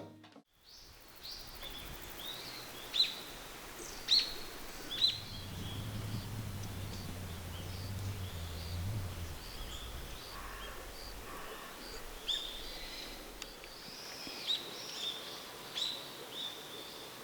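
Wild birds calling: a run of short chirps, with louder sharp down-slurred calls about three, four and five seconds in and again near the end. A faint low hum sits under them for a few seconds in the middle.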